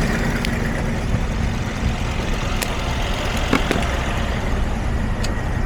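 Mercedes Sprinter's 3.0 L OM642 V6 diesel running steadily at idle, with a few faint clicks. It is running a little worse every time, with a faulty mass air flow sensor still fitted.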